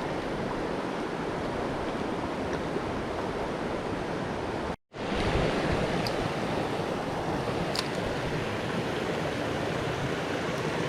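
Steady rush of river water running over shoals, cut off for an instant a little before halfway.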